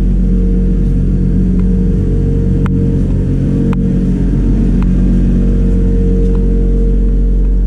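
A machine's motor running steadily with a loud, constant low hum, with a few short sharp clicks, the clearest about two and a half and three and a half seconds in.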